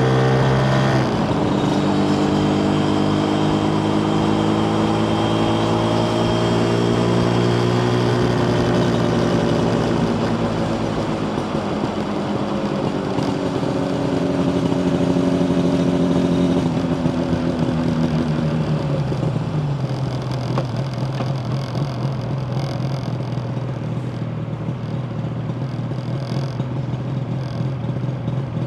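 Yamaha TZR250 1KT's two-stroke parallel-twin engine running under way, its pitch shifting with throttle and gear changes, then settling about two-thirds through into a steady idle.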